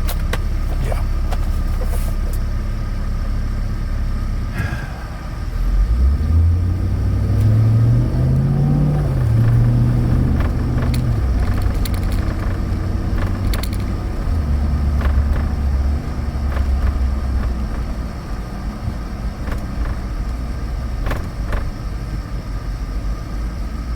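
2013 Chevrolet Avalanche's 5.3-litre V8 and road noise heard from inside the cab as the truck drives. The engine note rises as it accelerates about six seconds in, falls back around ten seconds in, then holds steady while cruising.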